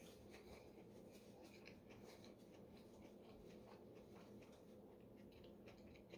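Near silence: faint, scattered clicks of quiet eating.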